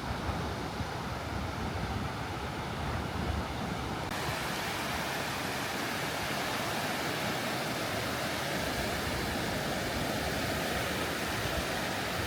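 Steady rushing noise of wind and water, with wind buffeting the microphone. About four seconds in it abruptly turns brighter and hissier.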